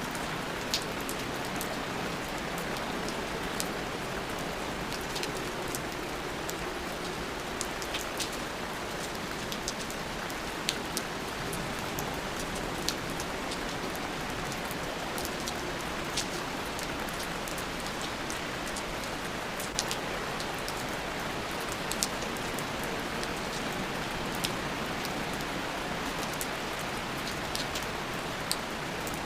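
Steady rain falling, an even hiss with scattered louder drops ticking sharply now and then.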